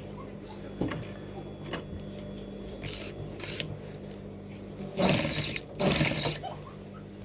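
Sewing machine with its motor humming steadily, running two short bursts of stitching about five and six seconds in, with a few light clicks earlier.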